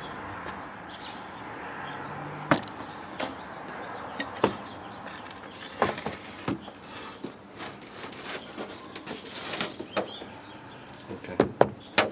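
Irregular clinks and knocks of hand tools on metal engine parts, about ten sharp strikes, with a quick cluster near the end.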